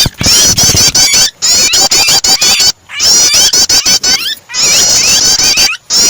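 Recorded bar-winged prinia (prenjak) song mixed with a bird's panicky distress calls, as of a trapped bird: dense, rapid, high chirps repeated in fast phrases. It is broken four times by brief, abrupt gaps where the recording is spliced.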